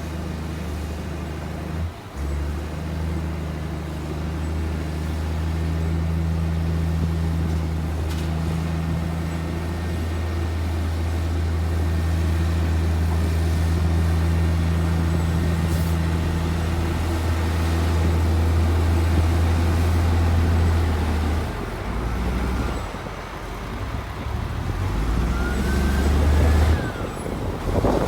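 Heavy earthmoving machine's diesel engine running with a steady low drone. The drone changes and dips about three-quarters of the way through, and a short high squeal follows near the end.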